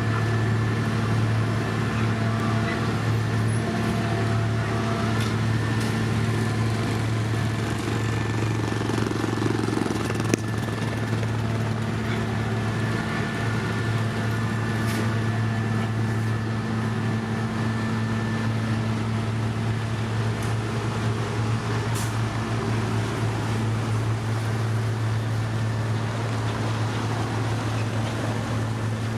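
Heavy construction machinery's diesel engine running steadily at one pitch with a constant low hum and a faint high whine, broken by a few sharp clicks, one about ten seconds in.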